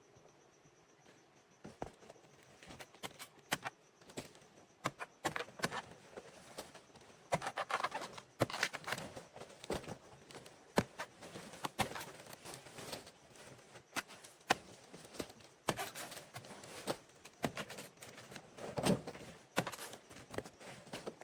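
Irregular clicks, knocks and rustling, the scattered sounds of hands at work with no steady rhythm, starting about two seconds in.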